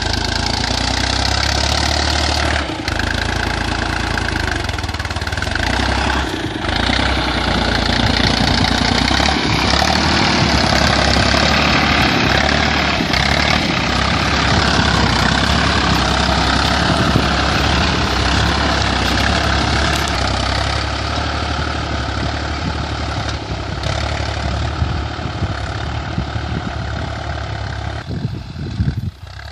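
Tractor engine running steadily as the tractor is driven, dropping away sharply just before the end.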